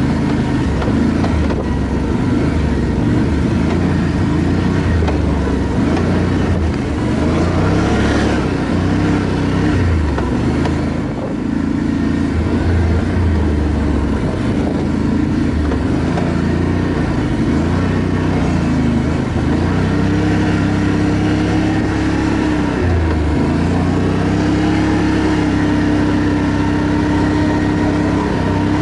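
ATV engine running while riding, its pitch rising and falling with the throttle, then holding a steadier note in the last third. A brief rushing noise about eight seconds in.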